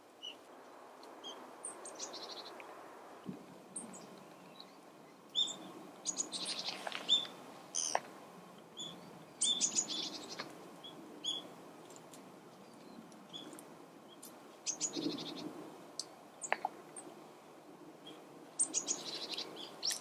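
Wild songbirds calling: short, high chirps and call notes in scattered clusters, over a faint steady background hiss.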